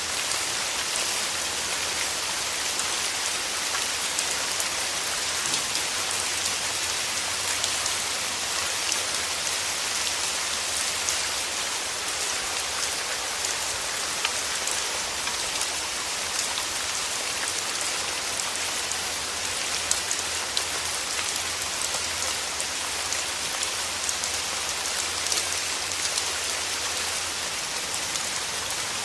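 Steady rain: a dense, even hiss of drops with scattered sharper single-drop ticks and a faint low rumble underneath.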